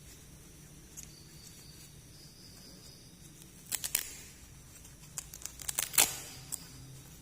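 Plastic toy packaging being torn open and crinkled, in short runs of sharp crackles: a brief cluster just before four seconds in and a louder run around six seconds in.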